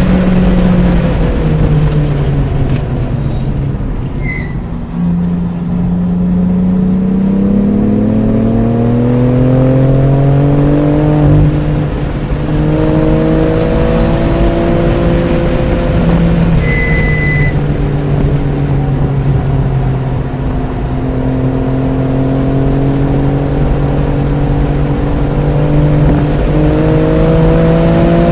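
BMW F80 M3 Competition's twin-turbo straight-six running hard on track. Its pitch falls, then climbs under acceleration, drops sharply at a shift about eleven seconds in, and rises and falls again several times over road and wind noise. Two short electronic beeps, one about four seconds in and one about seventeen seconds in.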